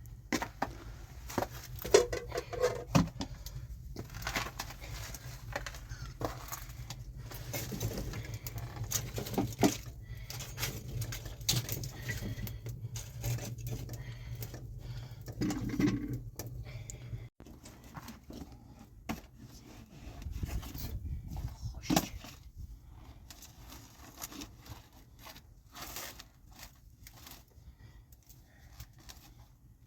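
Irregular clicks, knocks and scrapes of objects being handled, over a low steady rumble that cuts off suddenly about two-thirds of the way through.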